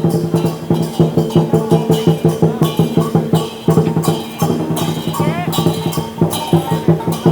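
Chinese dragon dance percussion: a big drum beaten in a fast, steady beat, with cymbal crashes about once a second.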